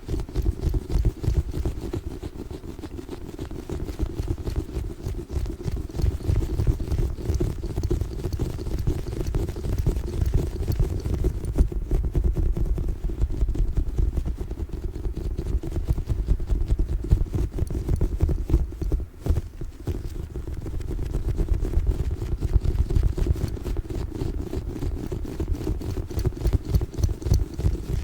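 Hands rapidly squeezing and handling a giant Orbeez (water-bead) ball, giving a dense, continuous run of low, soft strokes. There is a short lull about two-thirds of the way through.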